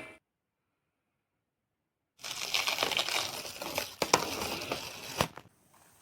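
Crunching, crackling noise with many small sharp clicks, lasting about three seconds and stopping suddenly.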